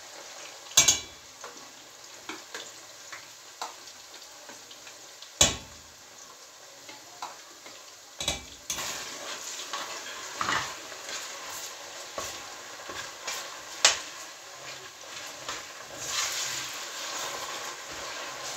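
Food sizzling in hot oil in a stainless steel pot, stirred with a metal spoon. The spoon knocks sharply against the pot four times. The sizzle grows thicker from about halfway and is loudest near the end.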